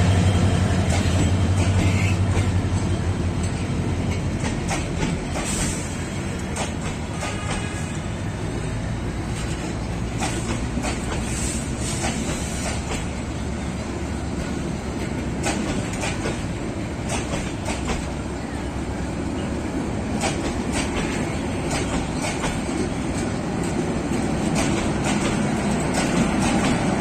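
Passenger coaches rolling past on steel rails, their wheels clicking irregularly over rail joints, with now and then a faint wheel squeal. A low hum fades over the first few seconds, and the running noise grows louder again near the end.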